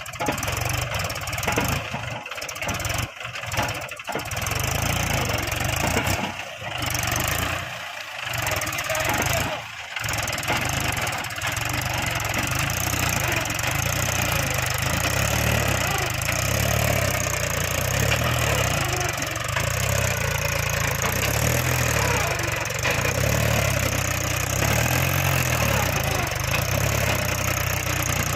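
Mahindra 265 tractor's diesel engine running steadily under a heavy load, with a low throb. Several brief dips break the sound in the first ten seconds, then it runs on evenly.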